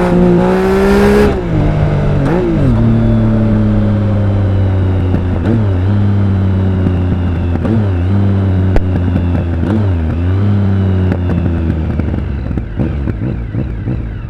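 Triumph Speed Triple 1050's inline three-cylinder engine and exhaust pulling hard with rising revs for about the first second, then coming off the throttle. It runs on at steady lower revs, with the engine note dipping and recovering briefly several times, and eases slightly toward the end.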